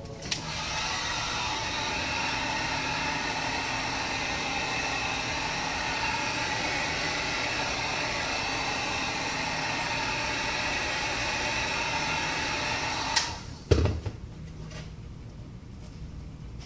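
Heat gun switched on with a click and blowing steadily for about thirteen seconds to soften the adhesive under the glass, then switched off with a click. A low thump follows shortly after.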